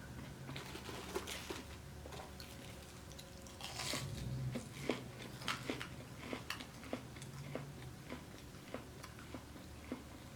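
Close-miked chewing of crunchy fried fast food: a crisp bite about four seconds in, then steady crunching with many small wet mouth clicks.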